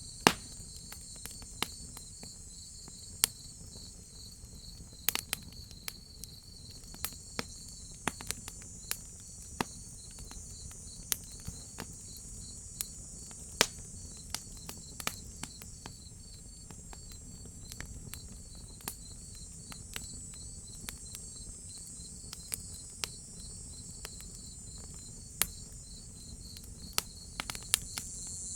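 Crickets chirping in a steady, fast pulsing trill, with a higher insect buzz above them. A wood fire crackles over them with sharp, irregular pops, a few of them much louder than the rest.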